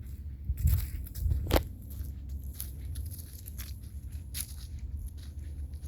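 Footsteps crunching irregularly along a trail, heaviest in the first two seconds, over a low steady rumble.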